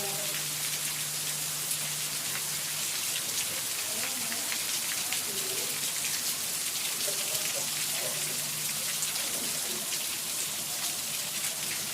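Steady rainfall, with many individual drops ticking on nearby surfaces.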